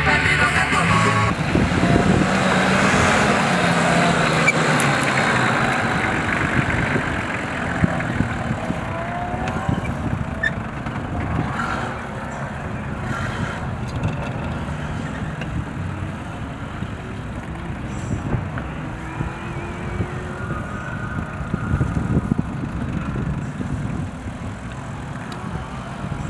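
Off-road 4x4 engines revving hard under load, the engine note rising and falling; loudest in the first several seconds, then somewhat quieter.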